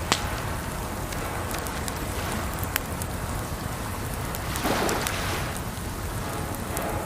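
Wood fire crackling, with sharp pops scattered over a steady hiss of running water; a brief louder rush of water comes about five seconds in.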